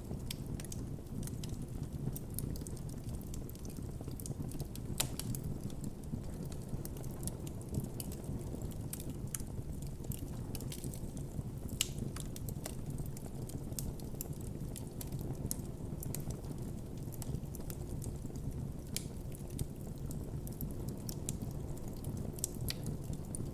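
Wood campfire burning: irregular sharp crackles and pops over a steady low rumble from the flames.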